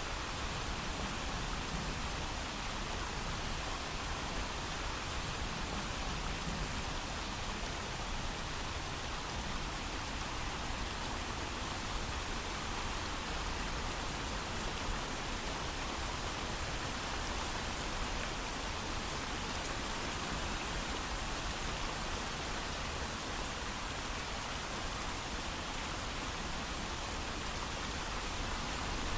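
Steady heavy rain falling, an even hiss of countless drops with no thunder.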